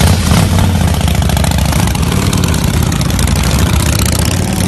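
Custom vintage motorcycle engine running steadily, with a brief swell in level right at the start.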